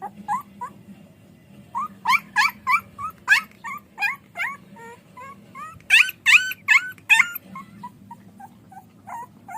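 Puppy whimpering and yelping in a rapid string of short, high cries, about two or three a second, loudest a little past the middle.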